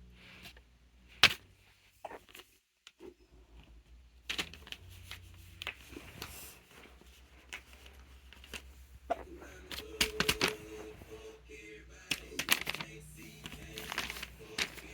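Small fidget toys being handled and set down: scattered clicks and knocks, with one sharp knock about a second in.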